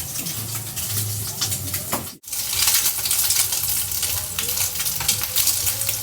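Virginia sausages frying in a little oil in a pan: a steady sizzle with crackling pops. There is a brief dropout about two seconds in, after which the sizzle is louder.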